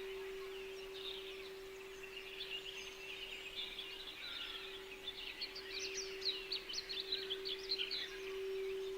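Songbirds chirping in quick, high, busy bursts, thickest in the second half, over a steady sustained low tone of a throat-center meditation frequency.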